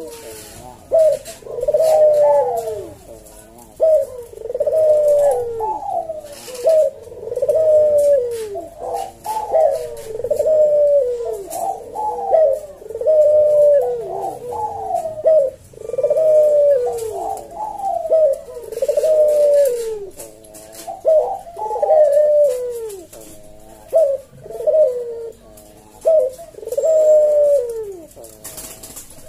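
Puter (Barbary dove) cooing loudly and continuously, a string of coos each dropping in pitch, about one every one to two seconds.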